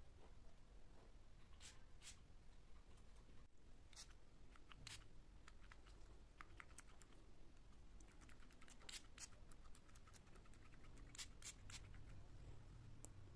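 Near silence: quiet room tone with faint, scattered light clicks and taps at irregular intervals.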